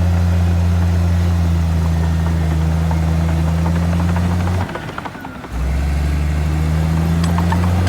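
Heavy diesel engine of earthmoving machinery running steadily, with light metallic clatter over it. The engine sound drops away for about a second near the five-second mark, then resumes at a slightly lower pitch.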